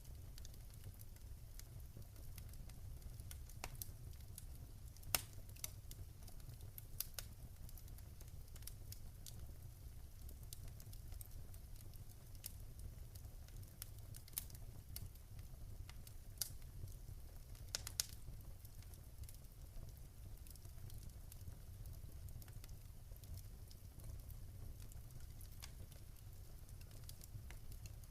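Fire crackling: irregular sharp pops and snaps, a few louder ones among them, over a steady low rumble.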